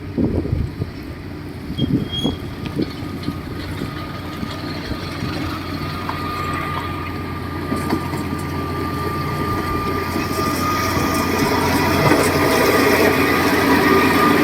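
Heavy diesel construction machine running, with a few clanks early on and a steady high whine that comes in about halfway and grows louder as the machine works harder.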